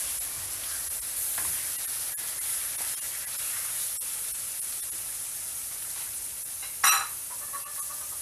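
Raw chicken pieces sizzling steadily in hot oil in a wok, stirred with a spatula. One sharp, ringing clank about seven seconds in.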